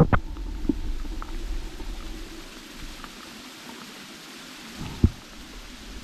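Car driving on a rain-soaked road: a low rumble with hiss that eases after a couple of seconds, and a sharp thump at the start and another about five seconds in.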